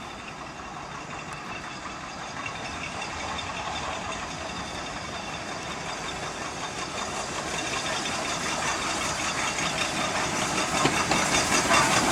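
LNER B1 4-6-0 steam locomotive 61306 Mayflower approaching: a steam hiss with a rhythmic beat that grows steadily louder, the beat plainest near the end.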